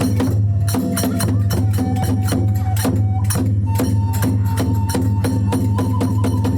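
Kagura hayashi ensemble playing dance music: small hand cymbals clashing rapidly several times a second over a steady taiko drum, with a bamboo flute holding long notes that step up in pitch about halfway through.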